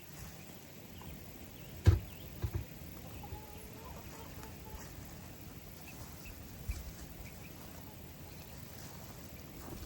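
Chickens clucking, with a sharp knock about two seconds in and a couple of lighter thumps just after.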